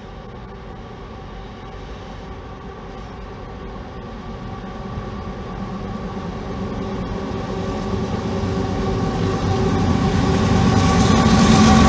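Approaching CSX freight train led by three diesel locomotives, their engines droning steadily and growing steadily louder as the lead unit nears, with a few sharp clicks near the end.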